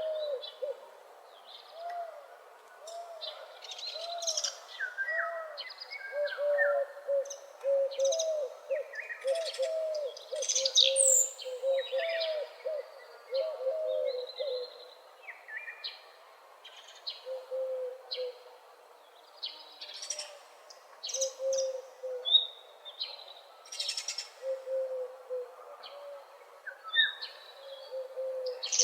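Dawn chorus of several wild birds: a low, repeated hooting note sounds over and over, rapidly through the first half and only now and then later, while other birds give short chirps and whistles higher up.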